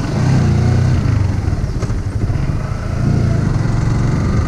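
Motorcycle engine running with a low rumble that grows louder twice: for the first second or so, and again from about three seconds in.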